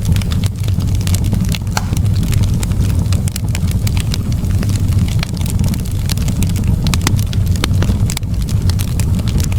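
Wood fire crackling in a fireplace: many quick, irregular snaps over a steady low rumble.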